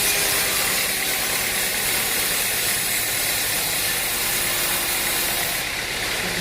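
Machinery running with a steady, loud hissing rush that cuts off sharply near the end.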